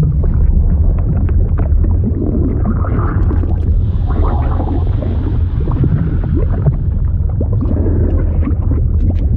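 Liquid sound effect: a steady deep rumble under bubbling and gurgling, with many small pops scattered throughout.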